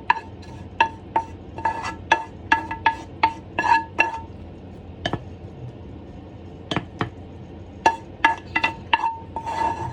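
A spoon repeatedly clinking against a ringing pot or dish while food is scooped out. The taps come in a quick run, stop for a couple of seconds in the middle, then start again near the end.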